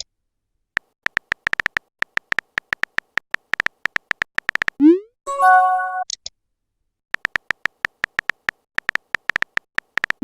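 Rapid phone-keyboard typing clicks for about four seconds, then a short rising swoop and chime like a message-sent notification, then typing clicks again until near the end.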